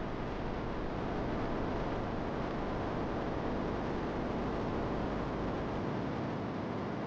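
Steady rain making an even, unbroken hiss.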